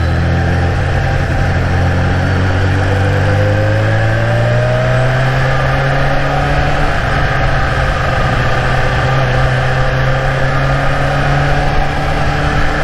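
Supercharged inline-four engine of a Kawasaki H2 motorcycle running at cruise, its revs climbing slowly over the first several seconds and then holding steady, heard from a helmet-mounted camera.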